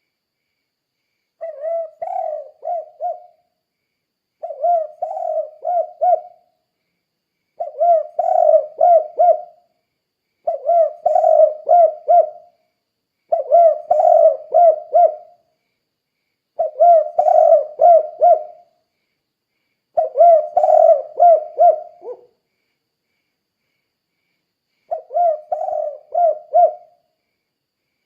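Spotted dove (tekukur) singing its 'kuk 2' song: eight repeated phrases, each a quick run of four or five low coos lasting about two seconds, with short pauses between them and a longer pause before the last.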